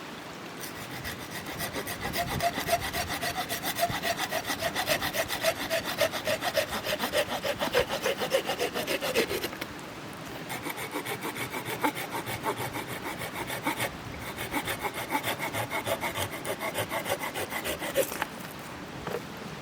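Wood being cut with a hand saw in quick back-and-forth strokes, in three runs with short pauses between them.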